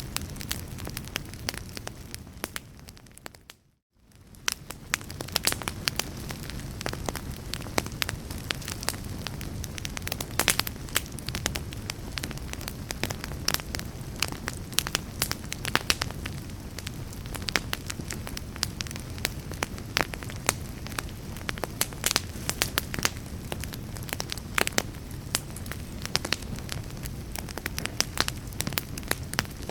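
Wood fire in a fireplace crackling and popping with many sharp snaps over a steady low rumble of flames. About four seconds in it fades almost to silence and then swells back up.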